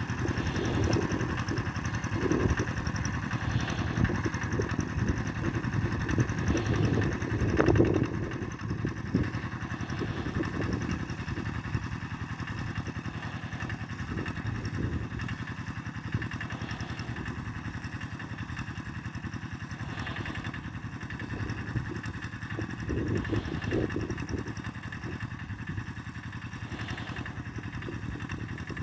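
Tractor engine running steadily while ploughing, louder and uneven for the first eight seconds or so, then settling to a steadier drone with a brief swell near the end.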